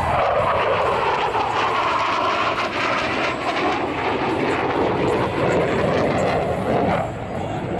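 F-16 Fighting Falcon fighter jet engine roaring loudly as it flies past during an air-show demonstration, easing off near the end.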